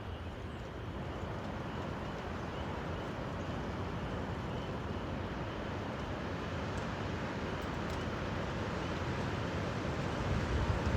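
Strong thunderstorm outflow wind blowing steadily, a rushing noise with heavy low rumble, building into louder gusts near the end.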